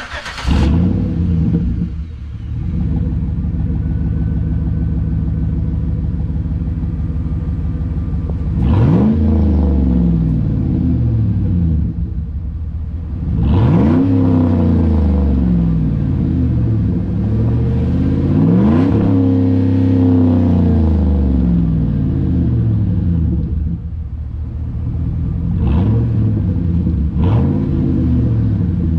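2011 Chevrolet Avalanche V8 on a straight-pipe exhaust, with its catalytic converter still fitted, starting warm and settling into a loud idle. It is then revved three times, the pitch rising and falling each time, followed by two short throttle blips near the end.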